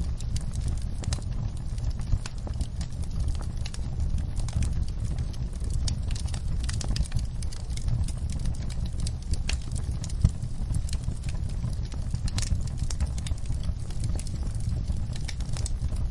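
Wood fire crackling: irregular sharp pops and snaps over a steady low rumble, with one louder pop about ten seconds in.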